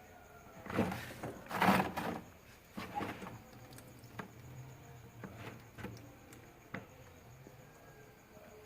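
Thick frost being scraped and knocked loose inside a refrigerator freezer: rough scraping bursts in the first two seconds and again around three seconds, then several sharp single clicks.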